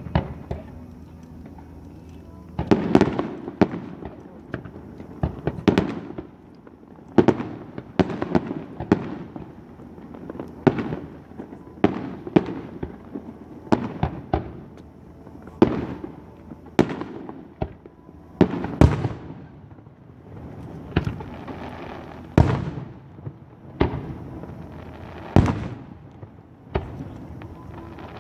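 Aerial fireworks shells bursting one after another, a sharp boom roughly every second, each trailing off in a short echo.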